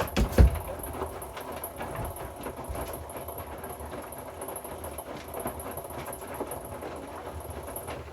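Hoover inverter washing machine tumbling its load in the wash phase, with a couple of heavy low thumps from the drum about half a second in and a steady high whine throughout.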